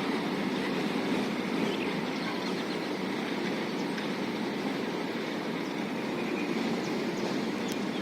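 Heavy truck running steadily, a constant engine and road noise that holds the same level throughout.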